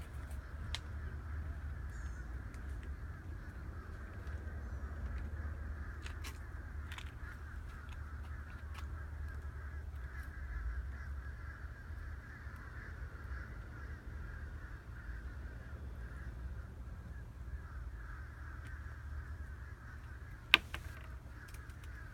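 Birds calling steadily in woodland, harsh crow-like calls layered into a continuous chorus, over a low rumble. A single sharp click sounds near the end.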